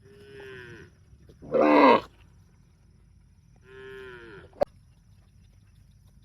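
Cattle mooing: three calls, the short middle one much the loudest, the two softer ones sliding down in pitch. A single sharp click follows the last call.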